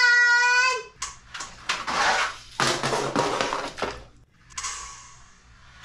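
A child's long held shout, then a die-cast toy monster truck clattering down a plastic track and splashing into a plastic bin of water.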